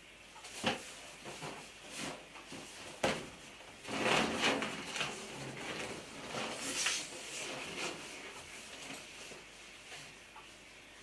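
Handling sounds on a large inflated rubber balloon while drawing on it with a marker pen: a few sharp taps and knocks, then stretches of scratchy rubbing of the pen over the rubber.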